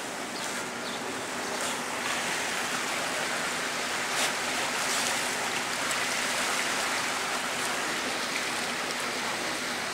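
Steady rush of running water, with a few faint splashes.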